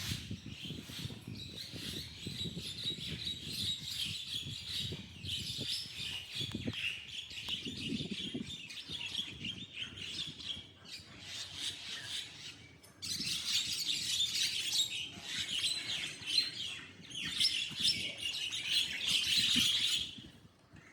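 A group of mynas chattering and squawking together, a dense, unbroken run of harsh calls from rival birds squabbling, louder over the last third.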